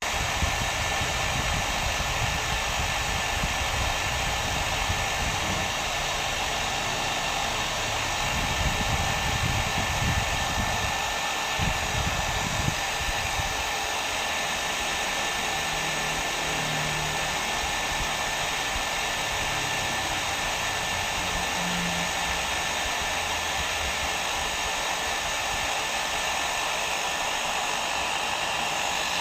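Hair dryer running steadily: an even blowing noise with a faint high whine, and a little extra low rumble about ten seconds in.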